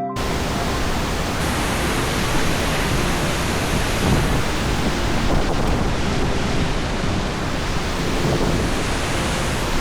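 Waterfall roaring close by: a steady, loud rushing noise with no breaks.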